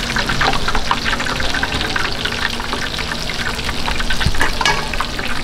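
Food frying in hot oil with a dense, crackling sizzle.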